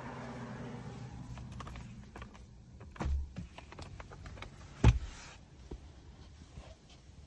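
Jaguar XJ8 3.5's V8 engine running steadily, then dying away about two seconds in. Scattered clicks and knocks follow, with a dull thud about three seconds in and a loud, sharp thump about five seconds in.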